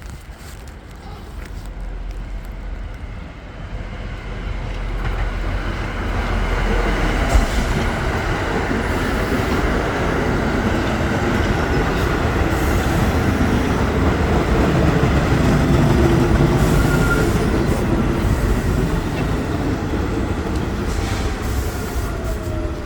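A train approaching and passing, its rumble and wheel noise building steadily for about fifteen seconds and easing off slightly near the end.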